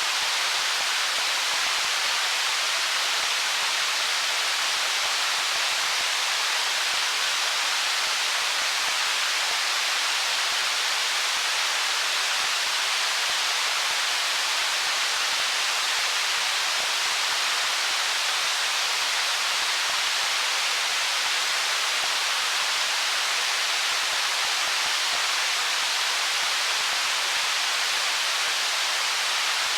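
Stream water rushing steadily over stones, an even hiss with no changes.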